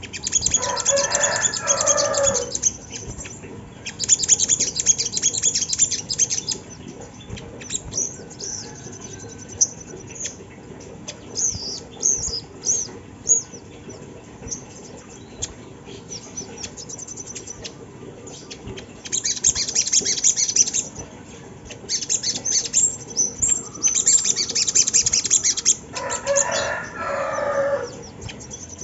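Little spiderhunter (sogok ontong) singing: high, very rapid chattering trills in bursts of about two seconds, with scattered single high chirps between them. Twice, near the start and near the end, a lower falling call sounds under a trill.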